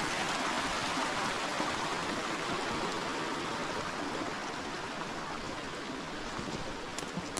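River water flowing over stones in a steady rushing noise that eases slightly toward the end, with a couple of faint ticks near the end.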